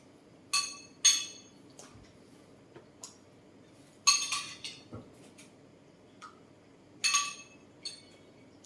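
Dishes and utensils clinking at a meal: a few sharp, ringing clinks spaced a few seconds apart, with fainter ticks between them.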